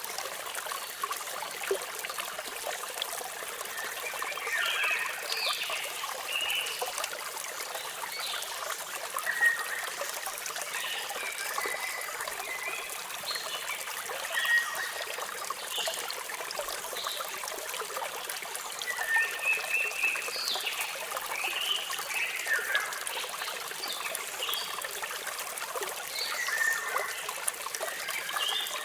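Running water trickling steadily, with many small birds chirping and whistling in short calls throughout.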